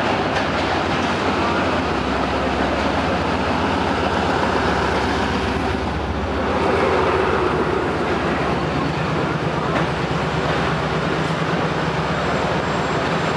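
Pakistan Railways ZCU-30 diesel-electric locomotive's engine running as it passes close beneath, then a train of passenger coaches rolling past on the rails as the express arrives, with a steady rumble of wheels.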